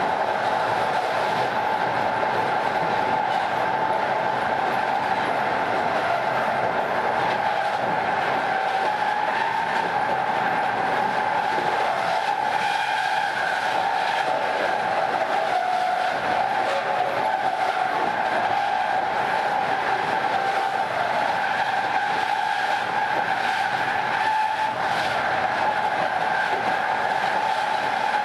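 Train wheels running on rail that sings, a steady high whining tone with a fainter higher tone above it, wavering slightly in pitch, over the train's running noise. The uploader puts the singing down to wheel-rail contact, such as unusually worn rail heads or slightly narrow gauge making the wheel tyres rub harder.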